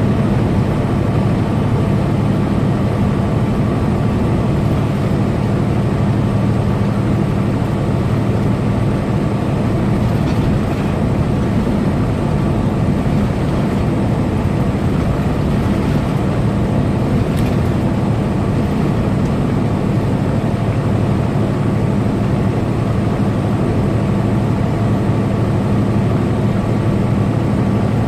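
Tractor-trailer truck cruising at steady highway speed: a constant low engine drone mixed with road noise, with no change in pace.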